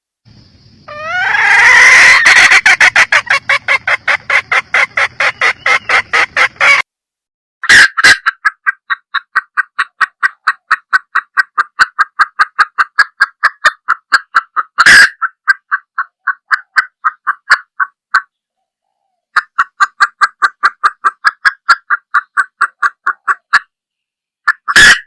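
Red junglefowl hen clucking in long rapid runs of about five clucks a second, broken by short pauses, with a few sharp clicks among them.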